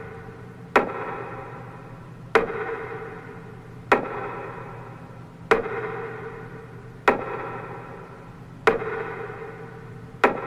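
Slow, evenly spaced metronome beats for a minute of silence, one knock about every one and a half seconds, each ringing on and fading before the next.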